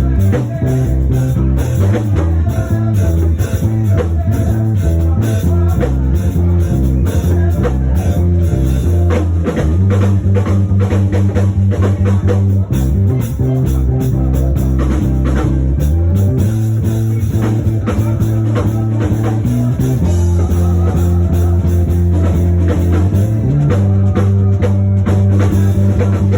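Band music: a bass guitar holds long low notes that change every few seconds, over drum kit and guitar.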